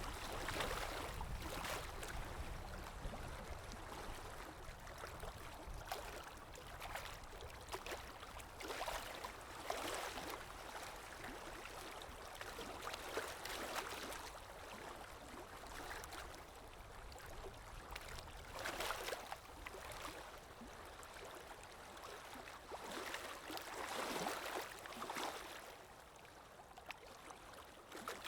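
Calm sea waves lapping and washing on a shore, a hiss that swells and fades every few seconds, with stronger surges now and then.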